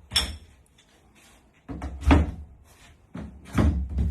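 Legs of an elevated dog bed being fitted onto its frame: three solid knocks with some rattle, about a second and a half apart.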